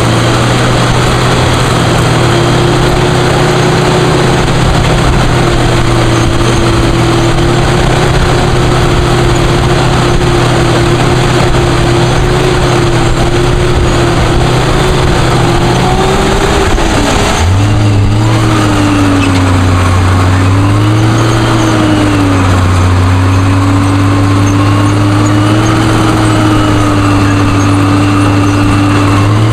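Heavy-equipment diesel engine running steadily under way. About halfway through, its note drops to a lower pitch and wavers for a few seconds.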